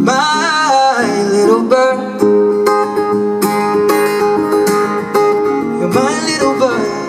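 Live acoustic guitar being picked, with a male singer's voice gliding over held notes at the start and again near the end, as the song winds down.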